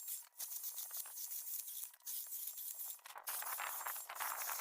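Battery-powered 4-inch mini chainsaw cutting through green acacia wood, the chain rasping through the log, with a few short breaks.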